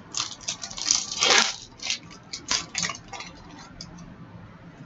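Crinkling and rustling of hockey card packs and cards being handled, a string of sharp crackles with the loudest crunch about a second in.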